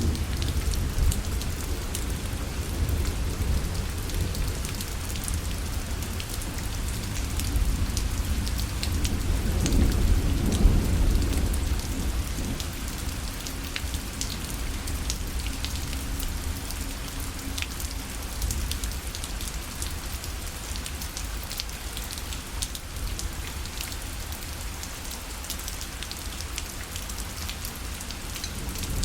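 Steady rain pattering on a parasol canopy, with many separate drops ticking against the fabric. A low rumble swells and fades about ten seconds in.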